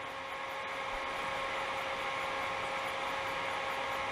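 Small laboratory heat engine running with its wheel spinning fast, an even mechanical whir with a few steady high tones. It is running at raised speed, its cold reservoir cooled by refrigerant spray.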